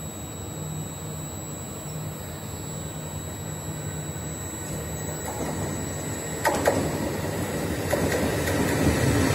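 Italo high-speed train approaching along the track, its sound slowly growing louder as it nears, with a few sharp clicks about six and a half and eight seconds in, over a steady low hum.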